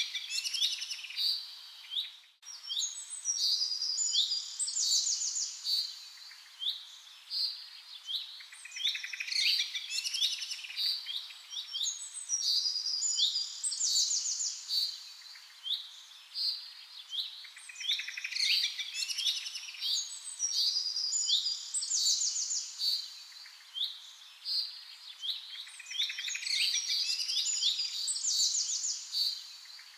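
A chorus of small birds chirping and calling over one another: a continuous stream of short high chirps, quick trills and falling notes, with a brief break in the sound about two seconds in.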